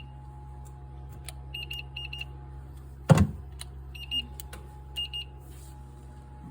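Short, high electronic beeps in quick groups of two to four over a steady low electrical hum, with one loud knock about three seconds in.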